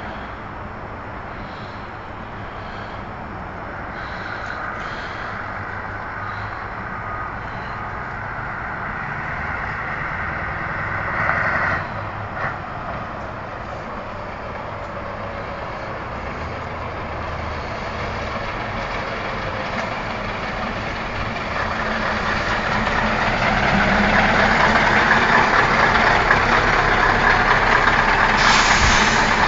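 Scania V8 truck engine running and growing steadily louder, loudest in the last third, with a short hiss of air about a third of the way in.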